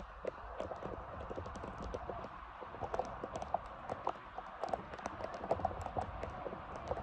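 Rain pattering: many small, irregular taps over a steady hiss.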